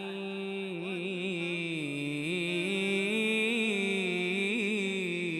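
Male voice chanting an Islamic ibtihal, drawing out a long wordless melismatic line that winds slowly up and down in pitch.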